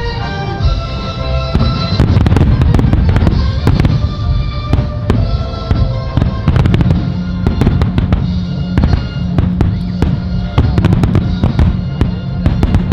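Fireworks bursting in rapid succession, a dense stream of cracks and booms that starts about two seconds in, over music playing on loudspeakers.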